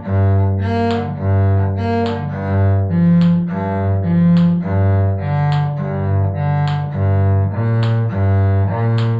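Cello bowing a B-flat major arpeggio in even eighth notes, crossing strings so that every other note is the open G string. The arpeggio notes rise and then step back down.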